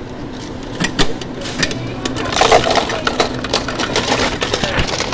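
Handling noise: a run of sharp clicks and crinkling, with a denser burst of rustling about two and a half seconds in.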